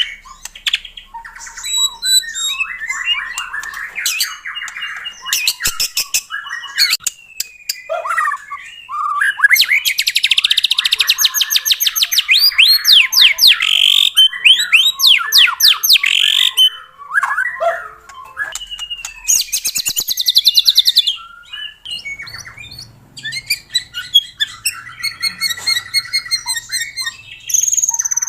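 White-rumped shama singing vigorously: a fast, varied song of whistled glides, long runs of rapid repeated notes and buzzy rattling phrases.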